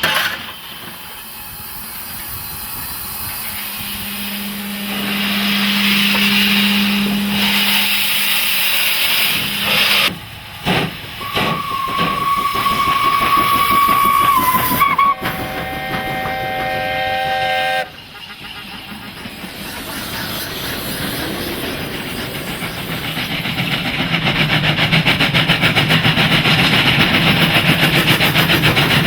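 Steam locomotive letting off steam with a steady hiss, then a single-note steam whistle held for about three seconds, followed at once by a lower chime whistle of several notes for about three seconds. The steam hiss then builds up again, with a fast, even beat in the last few seconds.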